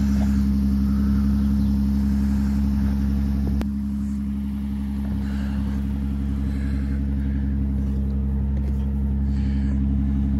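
Lexus IS 250's 2.5-litre V6 idling with a steady hum while it warms up after a cold start.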